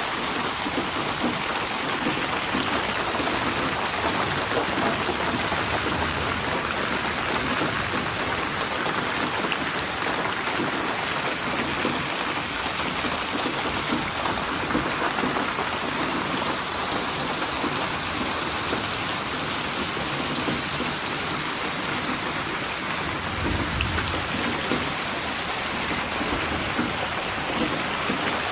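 Steady rain falling on a surface, with a brief low rumble of thunder near the end.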